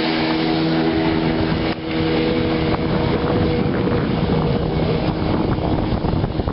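The motor of a small homemade power catamaran runs at a steady pitch while the boat moves on the water. Wind noise on the microphone grows and partly covers the engine tone from about halfway through.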